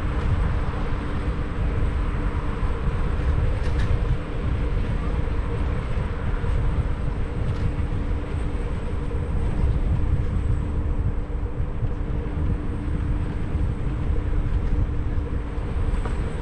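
Riding a Xiaomi 1S electric scooter: continuous wind rumble on the action camera's microphone and road noise, with a steady low hum held throughout.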